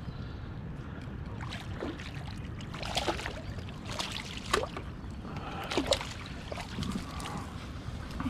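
Kayak on the river: a steady low wash of water against the hull, with a few short sharp sounds about three, four and six seconds in.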